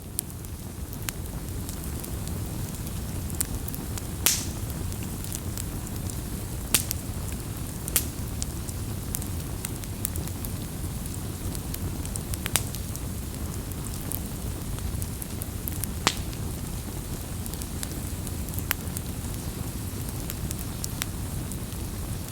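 Wood campfire burning with a steady low rumble and hiss, and frequent sharp crackles and pops, a few louder snaps among them.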